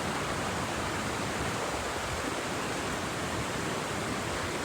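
Steady rush of creek water pouring over rocks and small falls.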